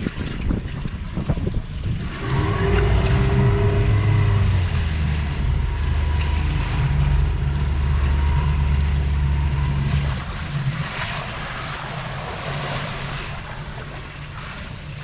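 Boat engine running steadily for about eight seconds, starting about two seconds in and stopping near the two-thirds mark, over wind and sea noise.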